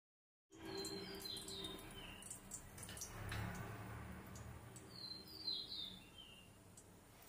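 A bird chirping in two bursts a few seconds apart, each a quick run of short, falling high notes, over a faint low hum with scattered soft clicks.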